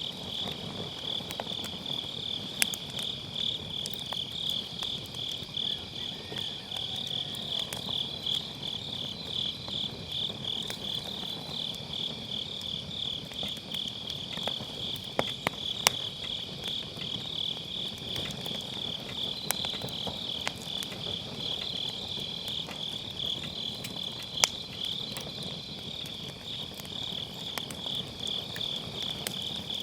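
Autumn grass insects trilling in a steady, rapid pulsing chorus over a burning wood fire, which crackles softly with a few sharp pops from the firewood.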